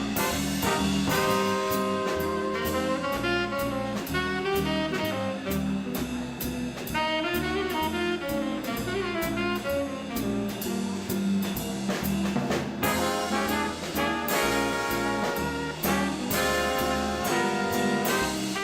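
Small swing band playing an instrumental chorus: saxophones, trumpet and trombone play over upright bass and drums, which keep a steady beat.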